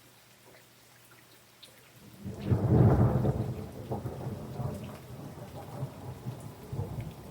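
Faint rain pattering, then about two seconds in a loud thunderclap breaks and rolls on as a long, uneven rumble over the rain.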